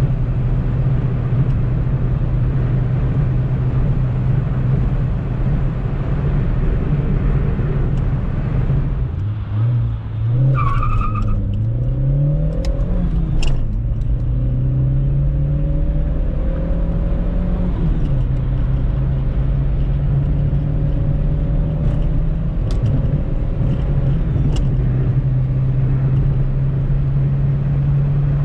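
A 1996 Opel Corsa B 1.4i's four-cylinder petrol engine with road noise, heard from inside the car. About nine seconds in, the engine note dips, then climbs in a few steps with a drop between each as the car accelerates through the gears. The last climb is slower, and from about eighteen seconds the engine settles into a steady, slightly higher cruising drone.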